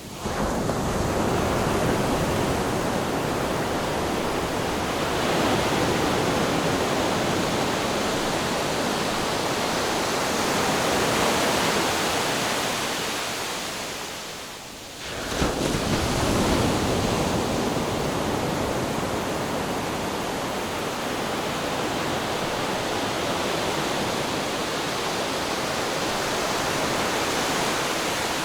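Ocean waves rushing onto the shore, a steady surf that swells and eases; it fades briefly about halfway through and surges back a moment later.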